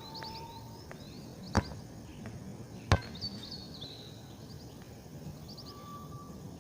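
Birds calling: quick high chirps repeating, with a short steady whistle near the start and again near the end. Two sharp clicks stand out, one about a second and a half in and another near three seconds.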